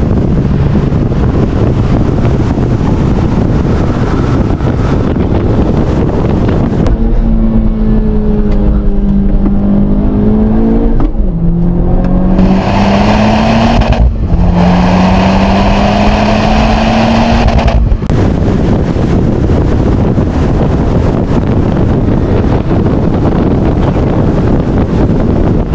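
Honda Civic Type R's turbocharged four-cylinder engine driven hard on track. For the first several seconds and the last several it is mostly buried under wind and road roar. In the middle stretch the engine note comes through clearly, climbing in pitch under acceleration and dropping sharply at an upshift, then climbing again.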